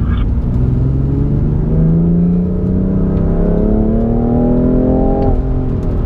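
BMW M4's twin-turbo inline-six engine pulling hard, its revs climbing steadily for about four and a half seconds, then dropping suddenly a little after five seconds in. A heavy low rumble of road and wind noise runs underneath.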